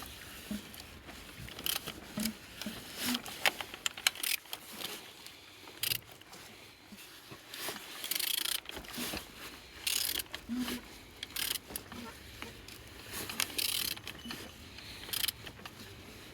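BMW N47 D20A four-cylinder diesel engine being turned over by hand: irregular clicks and scraping strokes every second or two as the crankshaft is worked round. It turns freely, with no sign of seizure.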